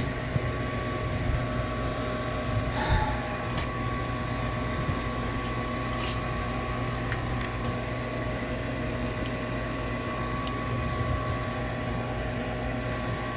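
Gas furnace's draft inducer motor running with a steady hum while the burners fail to light, with a few clicks and knocks scattered through. The furnace gets no further than the inducer stage, which the technician thinks points to a bad pressure switch.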